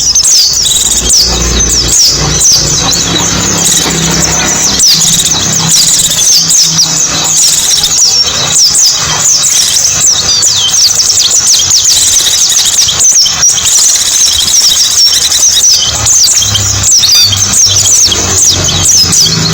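Pleci (white-eye) song: a dense, unbroken stream of rapid, high, thin chirps and twitters, with a faint low hum beneath.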